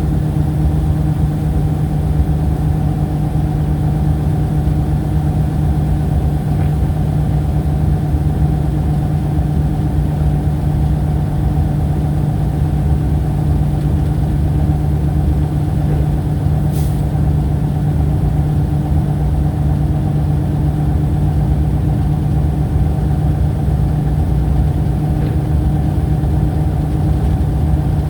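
Steady machine hum at a constant pitch over a low rumble, like an idling engine or running motor, unchanging throughout.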